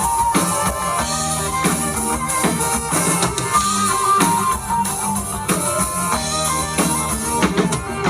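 Live band playing an instrumental passage: drum kit keeping a steady beat under guitar, with a stepping melodic lead line over it.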